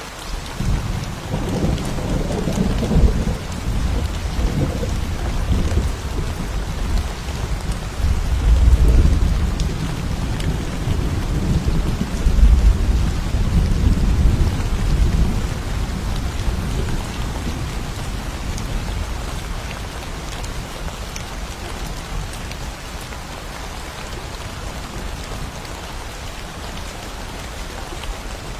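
Thunder over steady rain. A rumble breaks in suddenly and rolls on with several louder swells for about fifteen seconds, then slowly dies away, leaving the steady hiss of rain.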